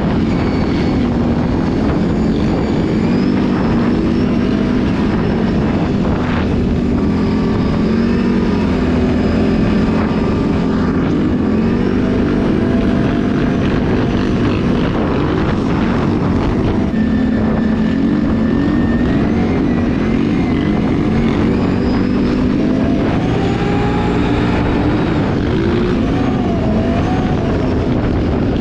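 Can-Am ATV engine running while riding, its pitch wavering up and down with the throttle over a steady rushing noise.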